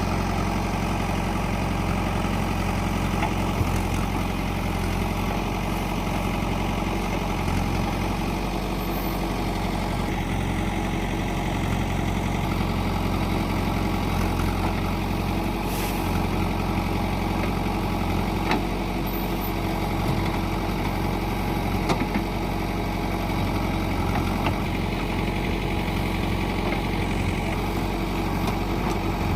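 Heavy diesel engine running steadily at an even speed, with a few faint knocks.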